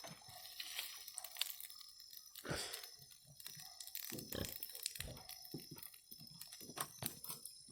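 Bonfire of brush and debris crackling faintly, with irregular small pops and snaps and a few louder cracks.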